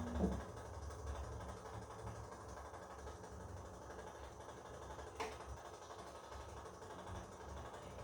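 Bosch Komfort-Klasse washing machine running: a steady hum drops in pitch and stops just after the start, leaving a low, uneven rumble, with a single sharp click about five seconds in.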